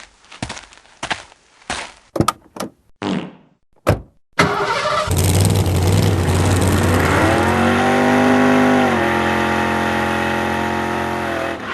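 A run of sharp knocks, then a car engine firing with a sudden bang about four seconds in and running, its pitch rising as it revs up and holding high before settling a little lower.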